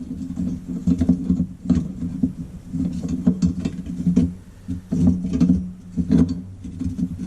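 Small metal parts of an old Coleman lantern being handled and turned during disassembly: irregular light clicks and rattles throughout, over a low hum that comes and goes.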